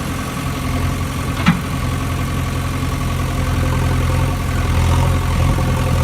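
Engine idling steadily with a low, even hum, with a single sharp click about one and a half seconds in.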